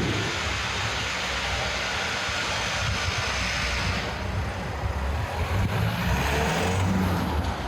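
City street traffic: vehicles passing with a steady rush of tyre and engine noise, a low engine drone growing stronger over the last couple of seconds.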